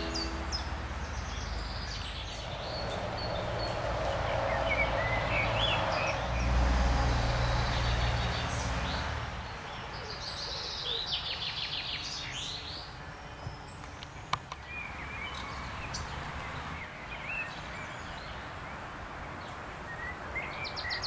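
Outdoor ambience of small birds singing and chirping on and off, over a low rumble that fades out about halfway through, with one sharp click after that.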